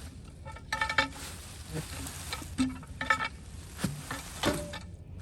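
Metal parts of a hand truck attachment knocking and clanking together as they are handled, four or so ringing clanks with a rustling, scraping background.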